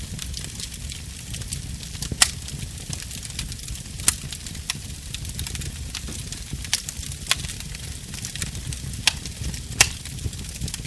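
Fire burning in a fireplace: a steady low rumble and hiss broken by sharp crackling pops every second or so, the loudest about two seconds in.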